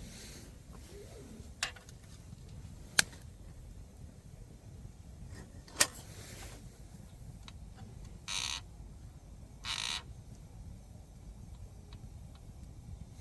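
Wood campfire burning, with a few sharp crackling pops spread a second or two apart and two short hissy bursts about a second and a half apart, over a steady low rumble.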